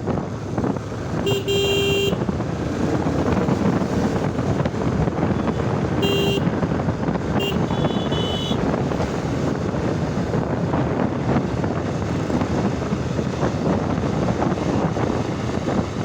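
Motorcycle under way, its engine and the wind rushing steadily. A vehicle horn honks about a second in, and horns honk three more times between about six and eight and a half seconds in, the last at a different pitch.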